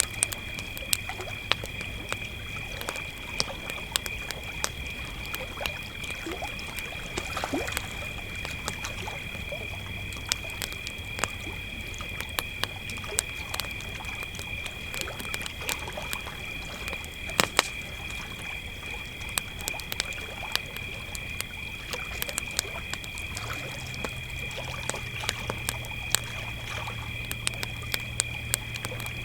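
Crickets trilling steadily and unbroken at two high pitches, with a campfire's burning wood crackling and popping irregularly over it.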